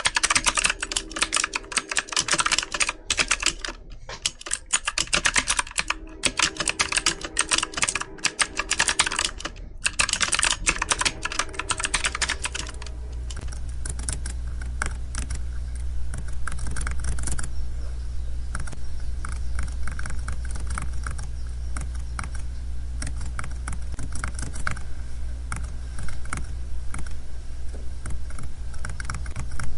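Computer keyboard typing: rapid, continuous key clicks with a few short pauses. About twelve seconds in the typing becomes softer, and a steady low hum runs beneath it.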